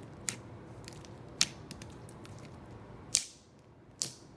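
Glossy slime with foam beads and foam squares being pressed and stretched by hand, giving four sharp clicks, the loudest about a second and a half and three seconds in.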